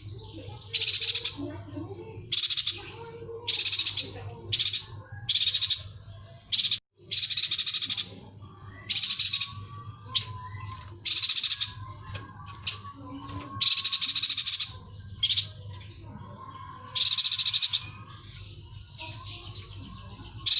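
Yuhina singing: repeated short, rapid high trills, about one every second or two, over a steady low hum.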